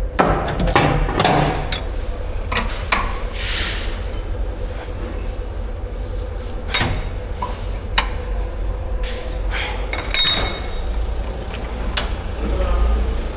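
Irregular metallic clinks and knocks from tools and engine parts being handled at a workbench, a few ringing briefly, over a steady low hum.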